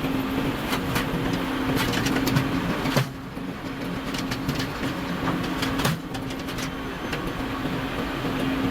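Log-processing machinery running with a steady hum and scattered clicks and knocks; the sound drops and changes abruptly about three seconds in and again just before six seconds.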